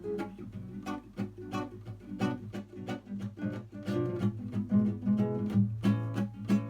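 Music: an acoustic guitar strummed in a steady rhythm, chord tones ringing between the strokes.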